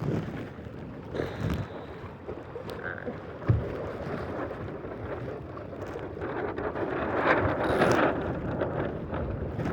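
Strong wind buffeting the microphone as a sailing dinghy moves through choppy water, with one sharp knock about three and a half seconds in. The rush of wind and water grows louder near the end.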